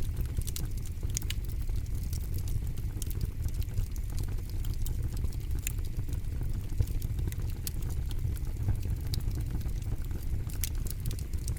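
Campfire burning: wood crackling with frequent sharp pops and snaps over a steady low rumble of the flames.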